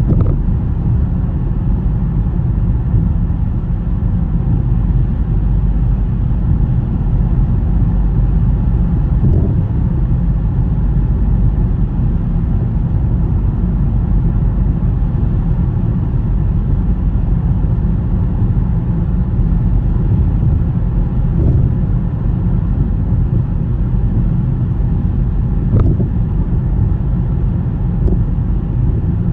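Car driving on a snowy road: a steady low rumble of road and engine noise, with a few faint knocks now and then.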